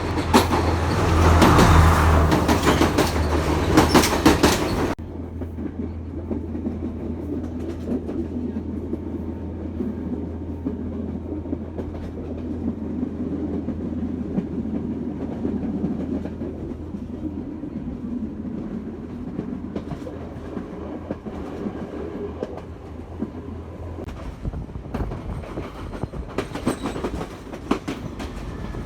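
Train running on rails with clickety-clack: loud for the first few seconds, then steadier and quieter with a low steady hum. The louder rail noise returns near the end.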